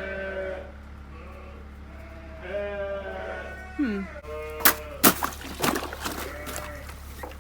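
Sheep bleating, a few separate calls, one ending in a falling glide. A few sharp knocks or clatters about five seconds in are the loudest sounds.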